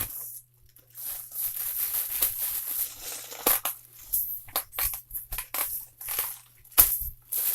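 Packaging being cut and pulled open: a knife working through heavily taped wrapping, with crinkling and tearing in short, irregular bursts.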